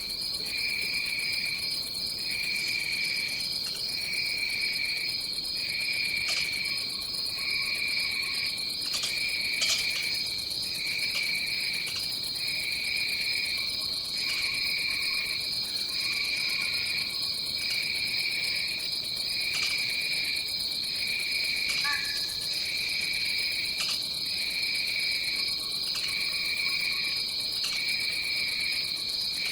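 Rainforest insect chorus: a steady high-pitched buzz, over which a lower trill pulses on and off in a regular rhythm about every second and a half.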